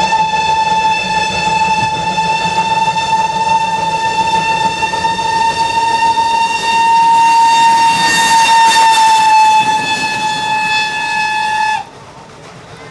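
Steam locomotive whistle blowing one long blast of nearly twelve seconds, a single steady note that rises slightly in the middle and cuts off sharply near the end.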